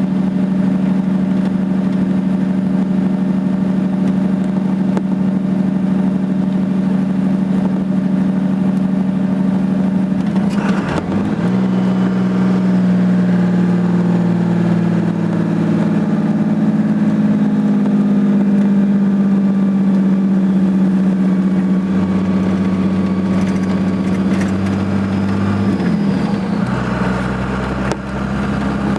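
Dodge Ram 2500's Cummins inline-six diesel running on a steep downgrade with its exhaust brake holding the truck back, a loud steady drone. The engine note changes abruptly about eleven seconds in and again near the end, and climbs slowly in between.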